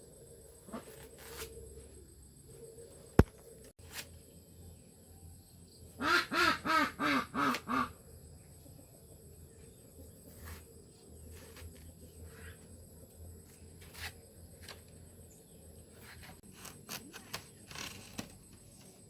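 An animal calling: a quick run of about seven loud calls lasting about two seconds, a few seconds in, after a single sharp click; scattered faint clicks the rest of the time.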